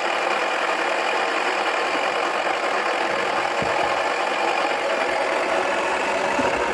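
Toy washing machine's small electric motor whirring steadily as its drum turns with a cricket ball inside, with a low thump about three and a half seconds in and another near the end.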